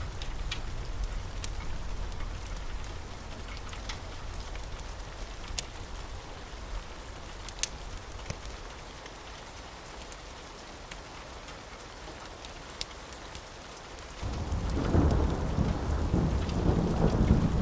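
Steady rain with a low thunder rumble dying away, then a new thunderclap about 14 seconds in that rolls on loudly. Occasional sharp crackles from a fire sound through the rain.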